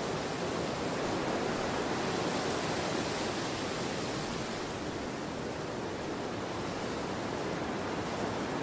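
Storm wind blowing steadily: a constant rushing noise that swells a little a second or two in and then eases.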